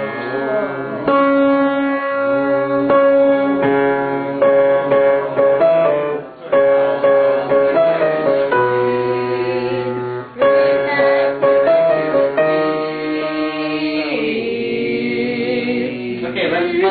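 A group of voices singing the top melody line together over piano accompaniment, held notes stepping from pitch to pitch, a first read-through of the part.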